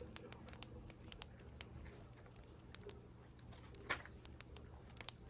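Irregular sharp clicks of keyboard typing mixed with the crackle of a wood fire, over a steady low rumble, with one louder snap about four seconds in.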